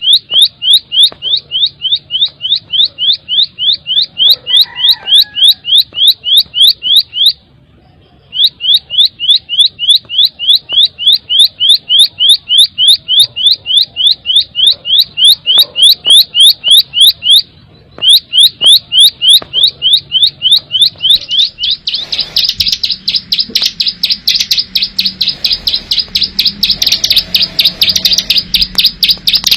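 Ciblek sawah, a prinia, singing a loud, rapid string of repeated high notes, about four a second, breaking off briefly twice. Near the end it switches to a faster, denser rattling trill.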